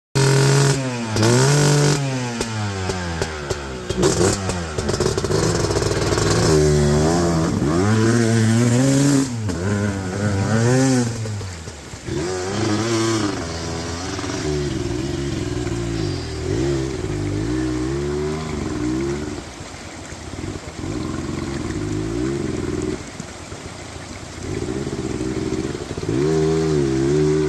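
Dirt bike engine being ridden hard, its pitch climbing and dropping again and again as the throttle is opened and closed, with occasional knocks and clatter.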